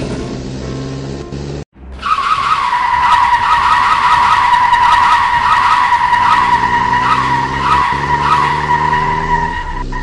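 Car tyre screech sound effect: one long, steady squeal held for about eight seconds, with a car engine running underneath. Before it, a short stretch of engine sound cuts off abruptly.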